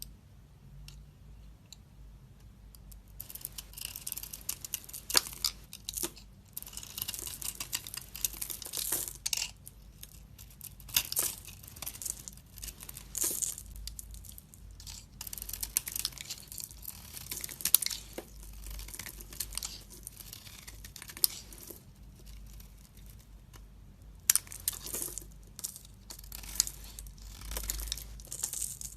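A knife carving and shaving a bar of soap: crisp crunching and crackling strokes with sharp snaps as the blade cuts through. It begins about three seconds in and goes in bouts with short pauses between cuts.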